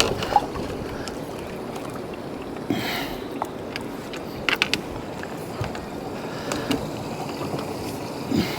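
Steady wind and water noise on a small boat on choppy water, with a cluster of sharp clicks or knocks a little past the middle.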